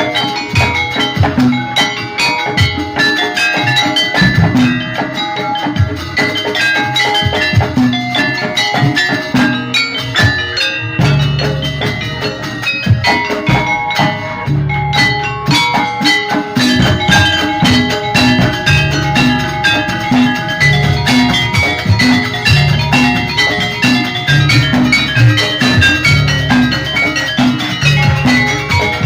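Javanese gamelan music for a jaranan dance: metallophones ring out interlocking melodic notes over a steady drum rhythm.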